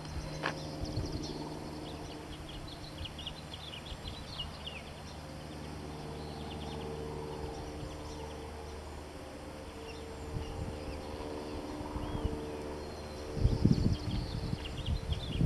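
Small birds chirping and twittering, over a steady low hum. Loud low rumbles hit the microphone near the end.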